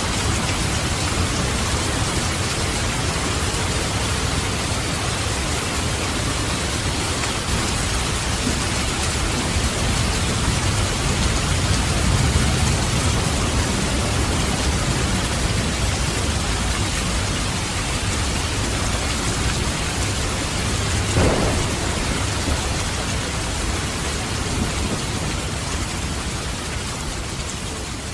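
Steady heavy rain with low rolling thunder that swells in the middle, then one sharp crack about three quarters of the way through; the sound fades slightly near the end.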